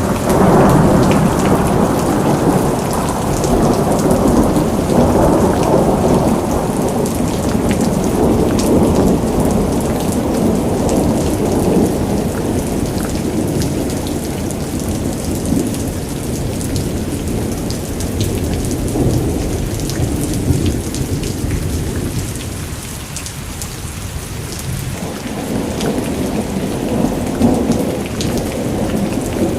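Heavy rain with rolling thunder: a continuous low rumble under a dense hiss of falling drops with many fine ticks. The rumble eases about two-thirds of the way through and builds again near the end.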